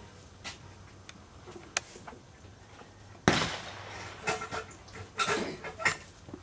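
A single rifle shot, most likely from a Savage Model 12 bolt-action in .223 Remington. It comes suddenly about three seconds in and dies away over most of a second, followed by a few shorter sharp clicks and knocks.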